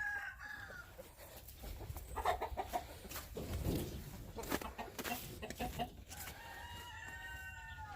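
Backyard chickens clucking and calling: one short call at the start and a long drawn-out call over the last couple of seconds.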